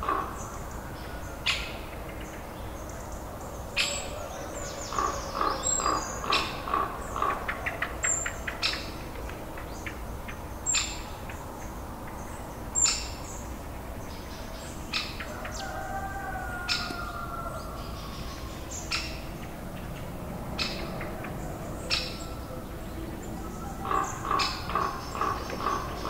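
Birds calling in the background. One gives runs of a short repeated note, about four to five a second, for a couple of seconds at a time; sharp high chirps come at irregular intervals between the runs.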